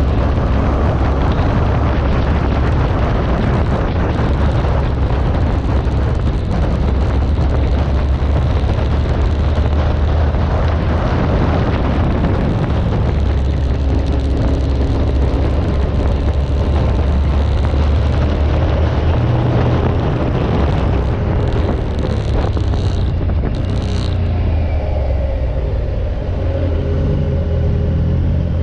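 Motorcycle on the move: a steady low engine drone under a heavy rush of wind noise. The engine note shifts in the last few seconds.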